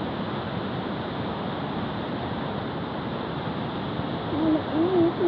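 Steady rushing of a waterfall in strong flow, the water running high. A person's voice comes in near the end.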